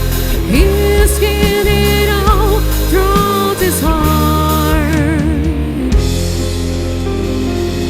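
Live band playing the closing bars of a slow pop ballad: a melodic line with vibrato over bass and drums, ending about six seconds in on a held final chord that rings out and slowly fades.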